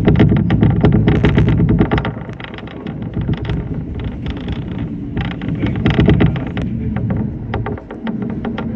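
Shinano Railway SR1-series electric train running, heard from inside the front car: a low rumble with dense clatter, louder for about two seconds and then easing off.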